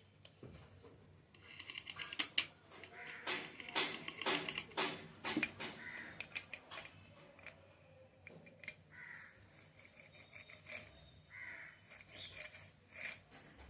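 Steel tractor parts and tools clinking and knocking against each other in quick irregular clatters as the differential is reassembled by hand. A crow caws a few times in the background.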